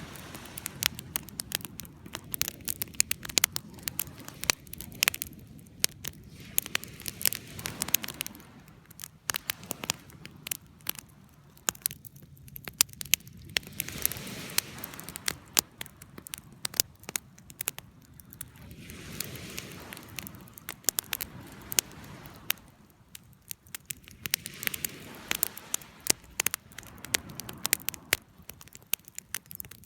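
Wood fire crackling, with frequent sharp pops of burning wood over a soft rush of flame that swells and fades every few seconds.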